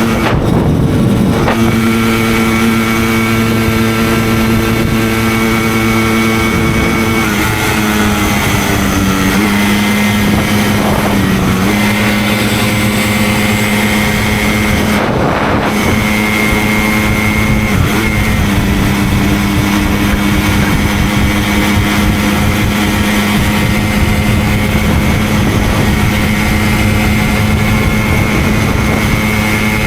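Simson 50 cc single-cylinder two-stroke moped engine running at a steady cruising pitch on the move, dipping and shifting in pitch briefly a few times.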